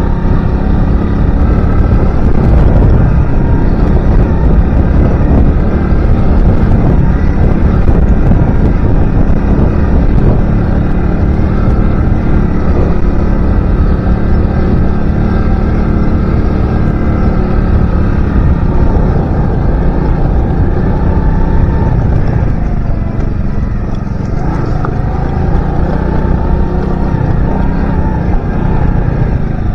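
Alpha motorcycle's small engine running under way while its new engine is being run in, under heavy wind rush on the microphone. The engine pitch rises and falls a little in the second half.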